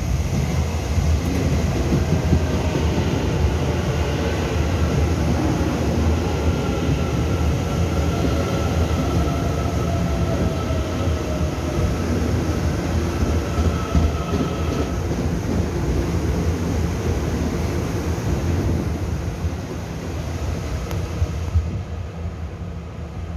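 Train moving along a station platform: a steady low rumble of wheels and running gear with a faint whine that dips slightly in pitch, easing off over the last few seconds.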